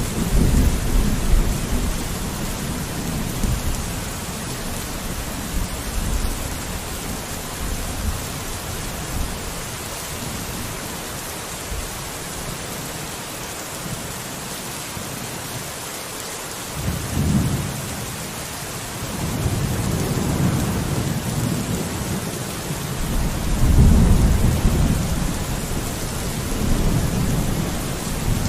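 Steady rain falling on a window, with deep rolling thunder rumbles swelling at the start and again several times in the second half, the loudest about three-quarters of the way through.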